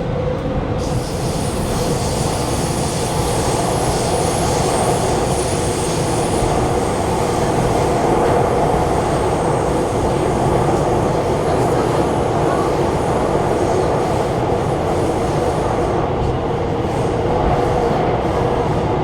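Alstom Movia R151 metro train running at speed through a tunnel, heard from inside the carriage: a steady rumble of wheels on rail, with a faint high whine in the first few seconds.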